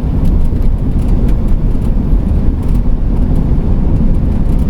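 Steady road and engine rumble of a 2008 Pleasure-Way Ascent camper van driving at highway speed, heard inside the cabin, with faint ticks now and then.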